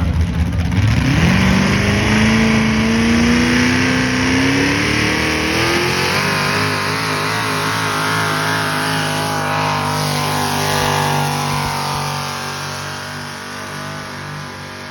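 Engine of a pulling vehicle running under full load. Its pitch dips briefly, climbs steadily over the first several seconds, then holds high with a wavering note, and the sound fades away over the last few seconds.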